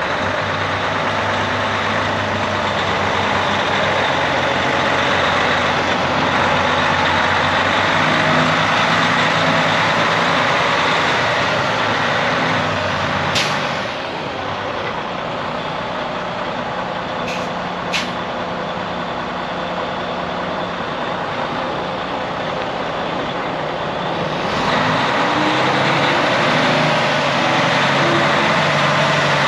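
Heavy truck's Detroit diesel engine running steadily. About 13 s in a sharp hiss or click comes and the sound drops a little, two short clicks follow a few seconds later, and near the end it grows louder again with a slight rise in pitch.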